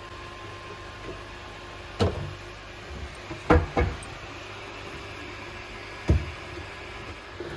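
Four hard knocks over a steady low hum: one about two seconds in, a quick pair a second and a half later, and a last one near the end.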